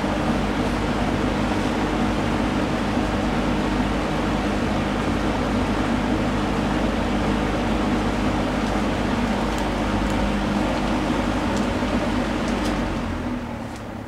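Vintage K-mart three-speed box fan with metal blades and a Westinghouse motor running: a steady rush of air over a motor hum. About thirteen seconds in, the sound begins to fade.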